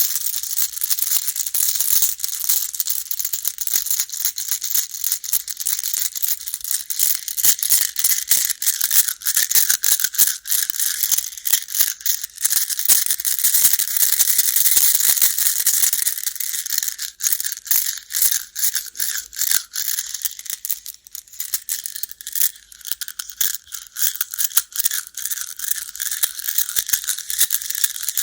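Baduk (Go) stones clattering together in a dense, continuous run of small sharp clicks.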